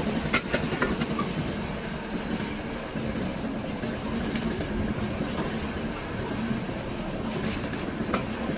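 Hydraulic press machinery running with a steady hum and rumble. A few sharp clicks come in the first second and another near the end.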